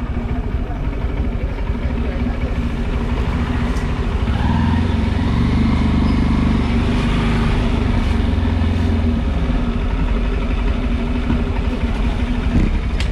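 Motorcycle engine running on the move, mixed with wind and road noise, growing louder about four seconds in.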